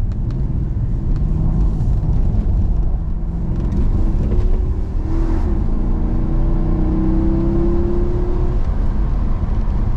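An American police car's engine under hard acceleration, heard from inside the cabin. The engine note rises in pitch twice as it pulls, then eases off near the end.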